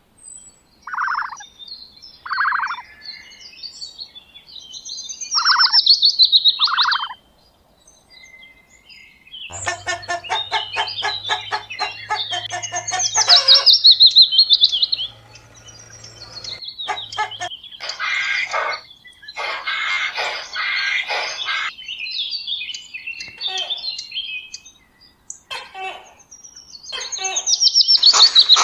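Birds calling: short repeated chirps and trilling phrases, growing denser and busier about ten seconds in.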